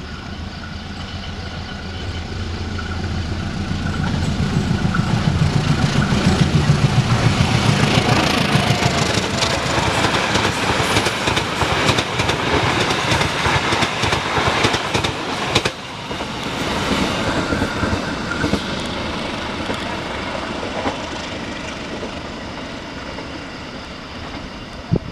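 Diesel-hauled passenger train approaching and passing close by. The locomotive's low engine sound builds, then a dense clatter of wheels over the rails comes as the coaches go past, and the sound drops away sharply and fades as the train moves off.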